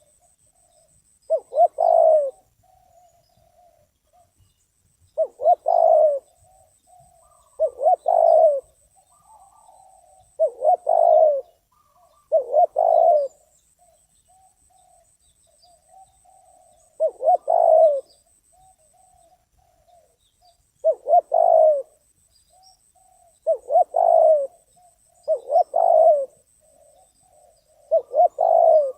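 Spotted dove cooing over and over, a loud phrase of about a second every two to three seconds with softer coos in between.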